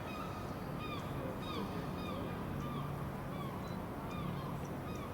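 A bird giving a run of short calls, each falling in pitch, about two a second, over a steady low hum.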